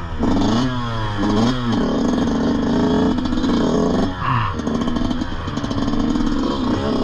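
An engine running, revved up and down a couple of times in the first two seconds, then running steadily with a short dip about four seconds in.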